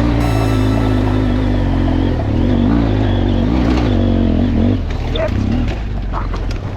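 Adventure motorcycle engine running under load and revving, its pitch rising and falling. About five seconds in it drops back, with some clattering.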